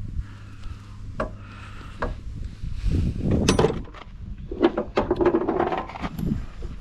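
A series of knocks and clattering of hard objects being handled, loudest in clusters around the middle and in the second half, over a low hum that fades out in the first two seconds.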